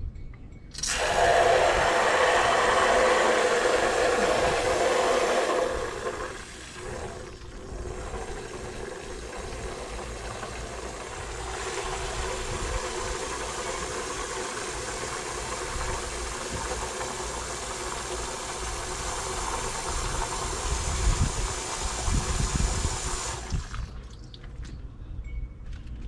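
Water running in a steady rush, loudest for the first few seconds, then stopping abruptly near the end.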